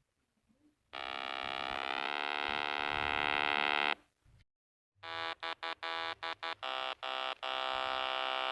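Synthesized buzzing engine sound effect for a speedboat, in an electronic, game-like style. A steady buzz starts about a second in and stops near the middle. After a short gap comes a stuttering run of about eight short buzzes, which settles into a steady buzz near the end.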